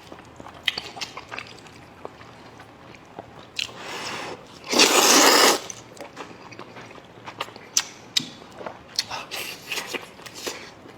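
Close-up eating sounds: small clicks of chewing and mouth smacks, with one loud, roughly second-long slurp of noodles near the middle.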